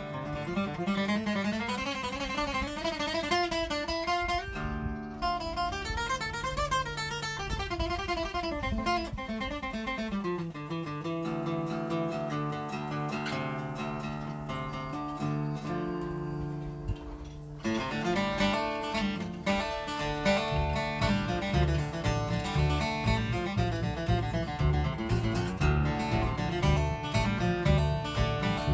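Flatpicked Guild acoustic guitar in drop D tuning, playing a bluesy old-time melody. About two-thirds of the way through it settles into a louder, steady rhythm of bass notes and strums.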